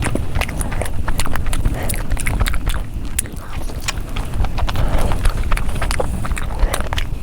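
Close-miked mukbang eating: rapid wet chewing and lip-smacking clicks, one after another, over a low rumble.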